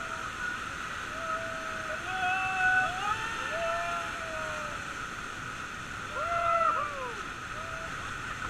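Rushing river water, with people calling out several long, wavering whoops that rise and fall in pitch, the loudest about a third of the way in and again near the end.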